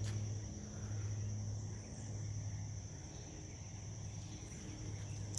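Crickets chirping in a steady, continuous high trill, over a low, steady hum.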